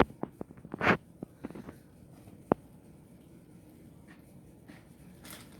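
Packing paper crackling and rustling in quick bursts as a cat plays in it, mostly in the first two seconds, with one more sharp crackle about two and a half seconds in.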